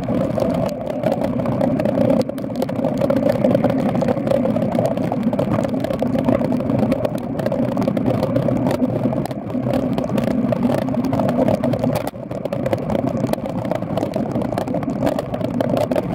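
Steady rushing noise of a bicycle ride in the rain, with a light rattle running through it and brief dips in loudness, about two seconds in and about twelve seconds in.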